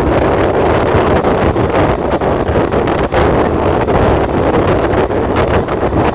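Passenger train running along the track, heard from on board, with strong wind buffeting the microphone: a loud, steady rumble and rush.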